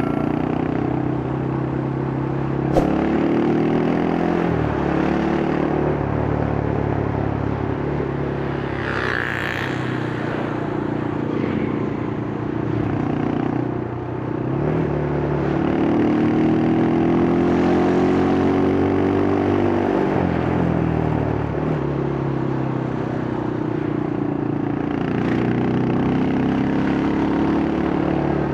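Yamaha Scorpio's single-cylinder four-stroke engine through its stock exhaust, riding on the road: the revs climb and then drop sharply several times as it shifts up through the gears, over the noise of traffic.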